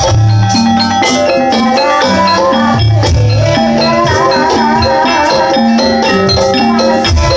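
Loud Javanese gamelan-style music for a jaranan dance: tuned metal percussion playing repeating stepped notes over deep drum strokes, with a wavering high melody line above and a rattling, jingling percussion layer.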